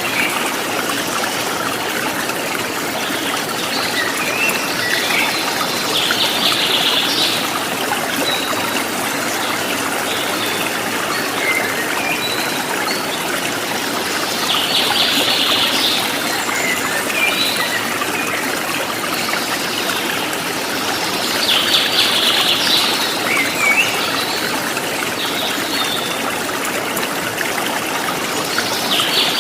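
Running water, a steady trickling stream, with birdsong over it: a bird repeats a short high song phrase about every seven to eight seconds, with scattered smaller chirps in between.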